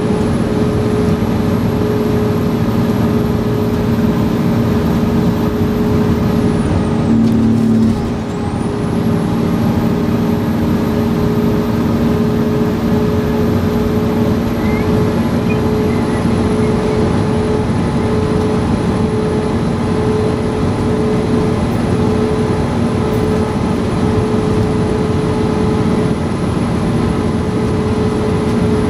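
Fire engine under way: a loud, steady drone of engine and road noise with a constant hum, changing briefly about seven seconds in.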